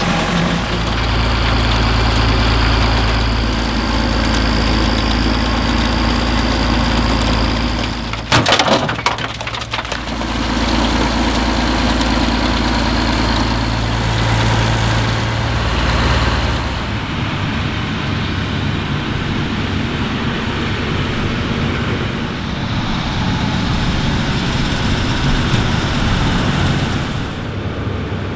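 Farm tractor and harvester engines running steadily, in several clips cut together, with a short burst of sharp crackles about eight seconds in and a change of machine sound around two-thirds of the way through.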